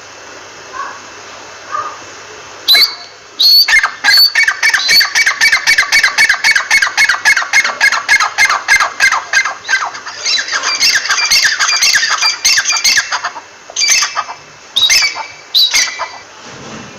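Francolin (teetar) calling: after two faint notes, a long run of loud, sharp, repeated notes, about four a second, starts about three seconds in and lasts some ten seconds, followed by a few separate notes near the end.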